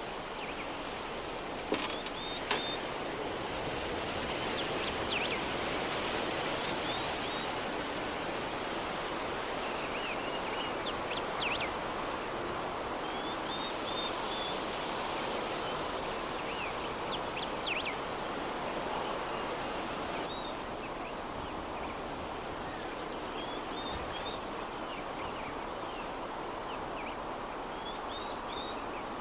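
Soft, steady breeze ambience with small birds chirping briefly every few seconds.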